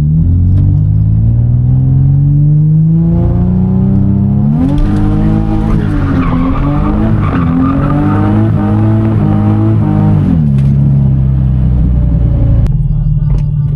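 Infiniti G35 V6 engine revving up on a drift run, its pitch climbing over the first few seconds. About four and a half seconds in, the tyres squeal as the car slides sideways for about six seconds, with the engine revs held high and wavering. The revs then settle to a steady lower pitch.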